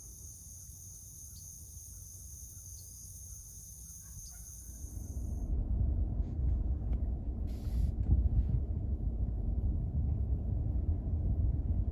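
Steady high-pitched insect chorus in a field. It cuts off suddenly about five seconds in and a louder low rumbling noise takes over.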